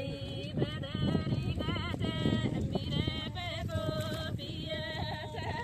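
A woman singing a melody with vibrato in phrases, likely a song track, over a dense low background noise.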